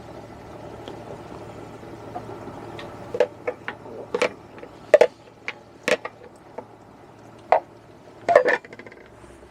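Gravy pouring into a cooking pot, then a run of sharp clinks and knocks from a spoon against the inner pot of an electric multi-cooker as a sausage casserole is stirred.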